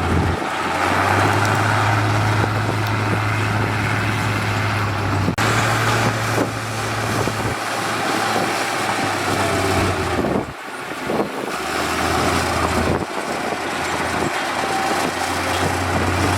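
Heavy diesel construction machinery running, with a steady low engine drone and mechanical noise. The sound changes abruptly about five and ten seconds in.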